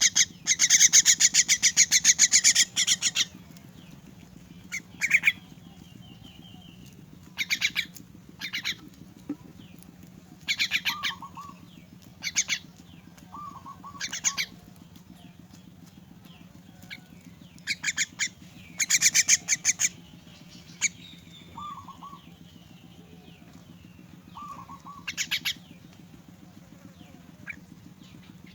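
Myna chick calling in repeated bursts of rapid pulsed calls, typical of begging at feeding time. The longest and loudest burst comes at the start, and shorter, softer calls fall between the bursts. A steady low hum runs underneath.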